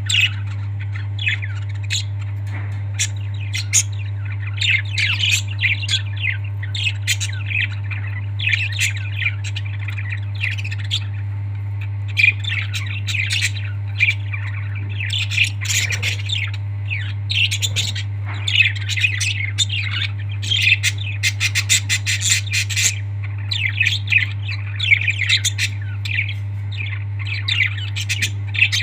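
Pet parrots giving many short squawks and chirps, heard over a steady low hum. A quick run of rapid clicks comes about two-thirds of the way through.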